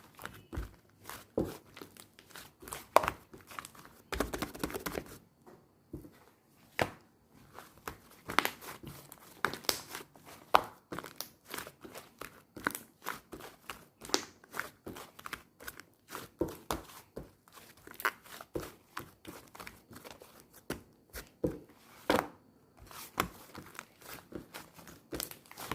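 Soft, fluffy clay slime being squished and pressed by hand, making many irregular small clicks, pops and crackles, with a longer stretch of crackling about four seconds in.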